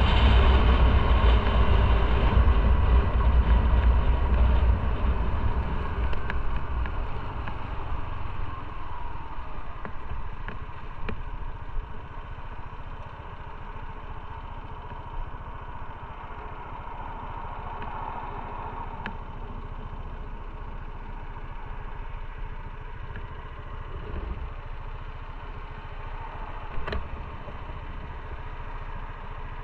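Motorcycle engine running under the rider, with road and wind noise. It gets steadily quieter over the first dozen seconds as the bike slows, then holds at a lower, even level with a few brief clicks.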